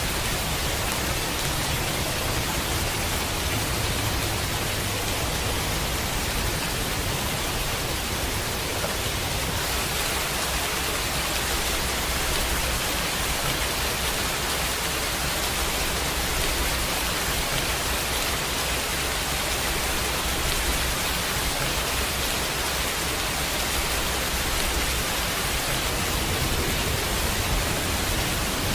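Steady heavy rain, a dense even hiss with no distinct drops or thunderclaps.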